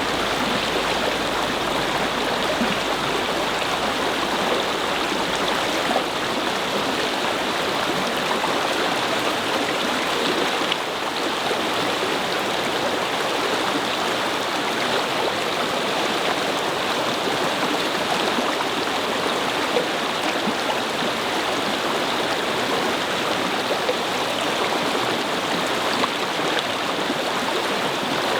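A brook babbling over stones: steady flowing water with small splashes and gurgles.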